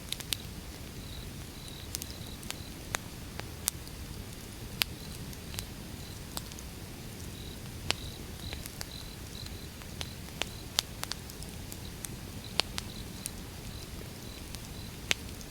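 Wood fire burning: a steady low rush with irregular sharp crackles and pops from the burning logs.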